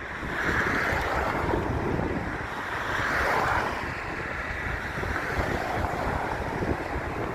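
Wind buffeting the microphone, with a low rumble and two swells, about half a second in and around three seconds in.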